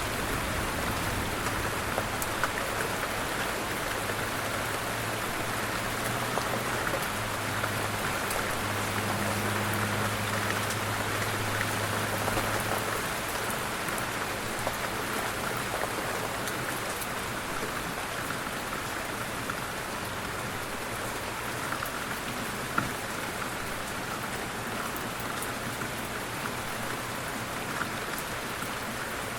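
Light rain falling steadily, with a dense patter of small drops ticking on surfaces. A low steady rumble underlies the first half and fades out a little before the middle.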